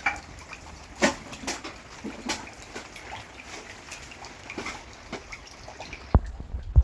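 Rain dripping in scattered, irregular drops over a steady soft hiss, with two heavy low thumps near the end.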